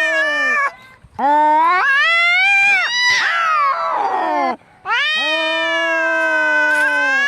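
Angry domestic cat caterwauling: three long, wavering yowls with two short breaks, the middle one turning harsh and rough before it drops away. This is the drawn-out threat yowling of cats squaring up to fight.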